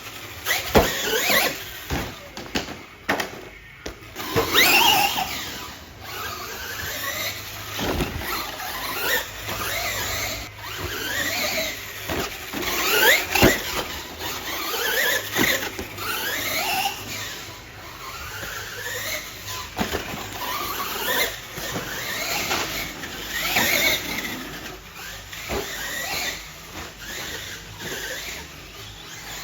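Electric motors of RC racing trucks whining up and down in pitch again and again as the throttle is worked through laps, with a few sharp knocks from landings or bumps.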